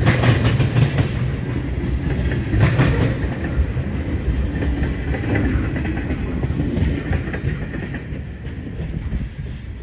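Tank cars of a freight train rolling past, steel wheels clacking over the rail joints over a low rumble. The last car goes by and the rumble fades near the end.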